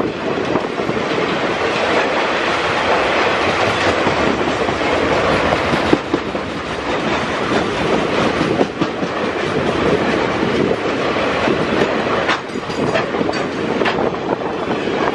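Loaded freight train's covered hopper cars rolling past at speed: a steady rumble of steel wheels on rail with scattered sharp clacks as the wheelsets cross rail joints.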